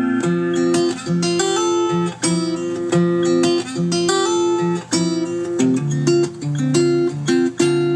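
Acoustic guitar music: a quick run of plucked notes over a moving bass line.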